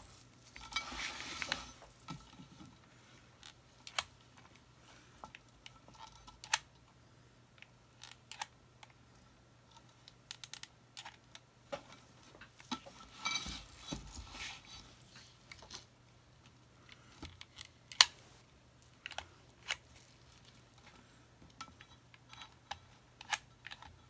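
Scattered small clicks and taps with two short rustling bursts, one near the start and one about halfway, over a faint steady hum: hands handling rope and a hot glue gun at a craft table.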